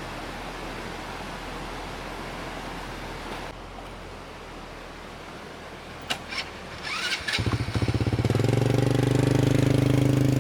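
A steady hiss, then a few clicks about six seconds in, then a small engine starts about seven seconds in and runs steadily and loudly to the end.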